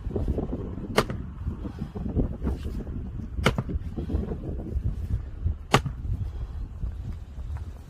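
Axe striking firewood three times, each a sharp crack, about two and a half seconds apart, as logs are split by hand.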